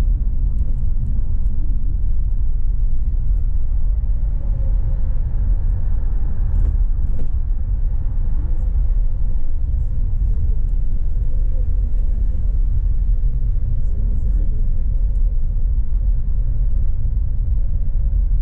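Steady low rumble of a bus in motion, heard from inside the passenger cabin, with a faint hum held at one pitch.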